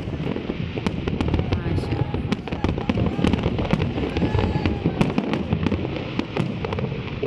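Fireworks display going off in rapid, overlapping bangs and crackles over a continuous low rumble.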